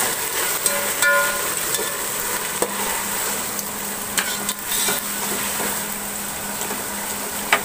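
Onions, tomatoes and herbs sizzling in hot oil in a metal pot while a metal ladle stirs them. Now and then the ladle clinks and scrapes against the pot, with one brief ring about a second in.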